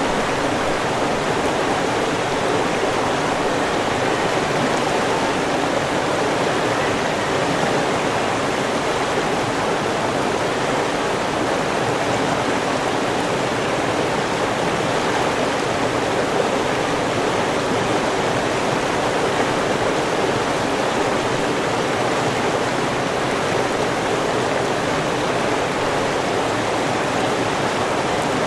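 River water rushing steadily over rocks, an even, continuous flow with no change.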